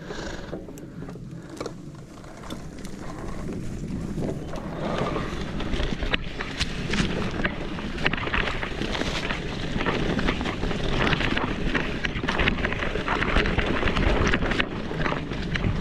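Bike riding a rough dirt singletrack: tyres rolling and crunching over the trail with many small knocks and rattles, and wind on the microphone. It gets louder from about four seconds in.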